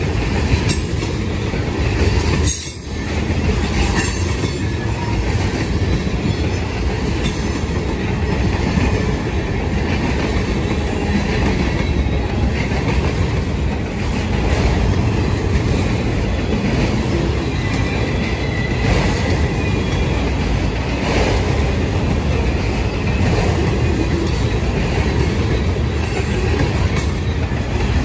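Freight cars (tank cars and autoracks) rolling past close by: a steady, loud rumble of steel wheels on rail, with scattered clicks as the wheels pass over rail joints.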